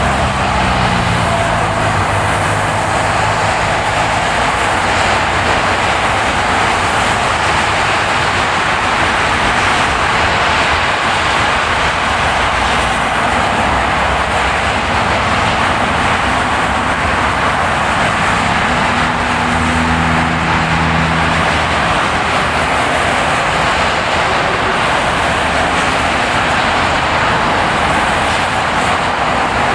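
Car driving on a ploughed, snowy road: steady tyre and road noise. A low droning note comes in for a couple of seconds about two-thirds of the way through.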